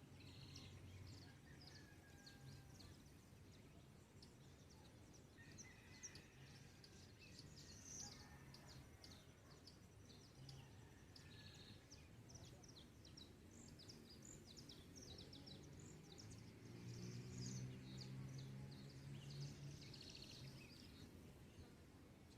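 Faint dawn bird chorus: several birds chirping and calling in short, scattered notes. A low hum runs underneath and swells for a few seconds near the end.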